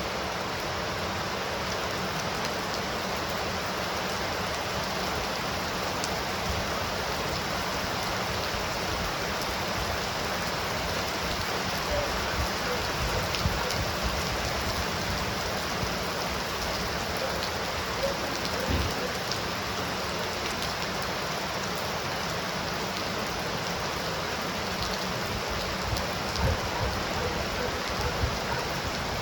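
Heavy rain falling steadily, with a few louder drip taps standing out, a cluster about halfway through and more near the end.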